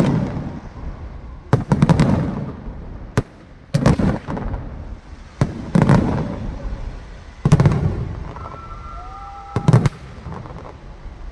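Aerial fireworks bursting: clusters of sharp bangs about every two seconds, each followed by a low rumbling echo. A high whistle rises and then holds through the last few seconds.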